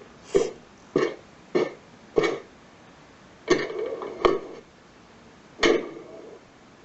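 Tamiya MFC-03 sound unit playing a footsteps-and-door effect through its small speaker. Four evenly spaced steps about half a second apart, then longer door sounds about three and a half seconds in and again near the end.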